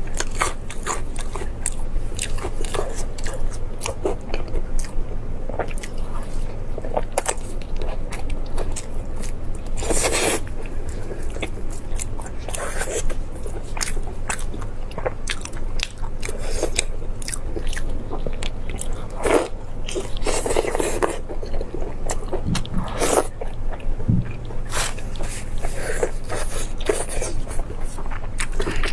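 Close-miked eating: a person biting and chewing food, with many short sharp clicks and crackles and a few longer wetter smears, over a steady low hum.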